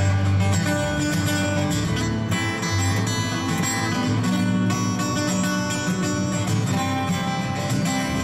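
Instrumental break of a live folk song: acoustic guitar strummed and picked, with no singing.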